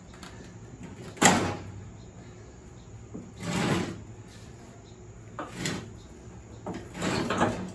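Lawn tractor mower deck being tugged out from under the machine: four scraping, clunking bursts, the loudest and sharpest about a second in, as the deck catches on the front pin whose linkage is still connected.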